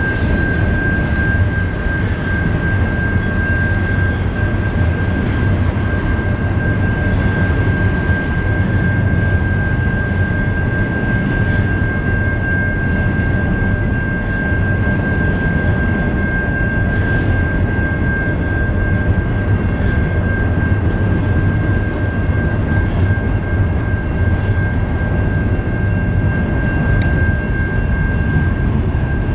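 Freight train rolling past: a steady, loud rumble of wheels on rail, with a constant high-pitched tone held over it.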